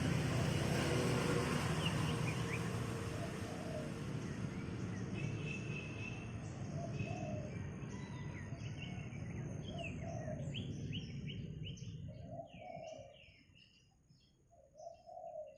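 Wild birds chirping in quick, short notes that drop in pitch, growing clearer toward the end as a steady background rumble fades away.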